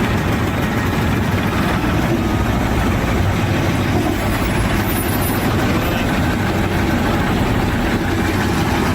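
A heavy engine running steadily: an even, loud low rumble with no change in pitch.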